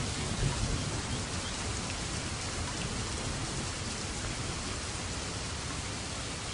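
Steady heavy rain falling in a dense, even patter, with a low thunder rumble dying away in the first second.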